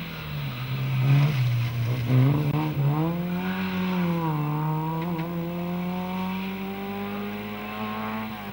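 Fiat 127 Giannini rally car's four-cylinder engine coming off the throttle into a corner, then pulling hard away through the gears. The pitch climbs in long pulls, with a brief dip for a gear change about four seconds in and another right at the end.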